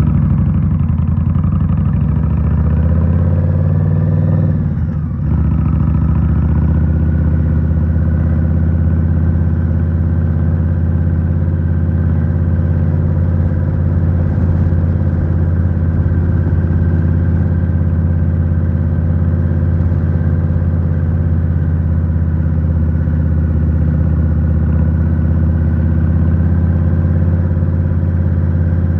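2023 Indian Scout Rogue's 69 cu-in V-twin running under way through a Rinehart 3.5-inch slip-on exhaust. The engine note rises, then eases off and dips briefly about five seconds in, then holds steady at a constant pace.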